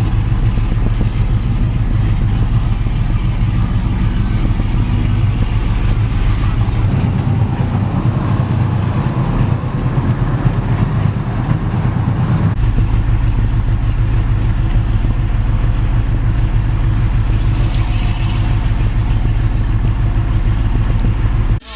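A truck engine running steadily with a strong low drone. The deepest part of the tone drops away about seven seconds in and comes back about twelve and a half seconds in.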